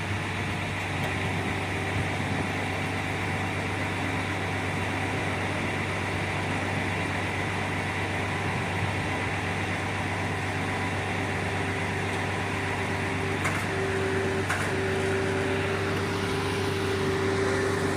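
A vehicle engine running steadily with a low hum, joined in the last few seconds by a steadier, louder whine and a couple of light clicks.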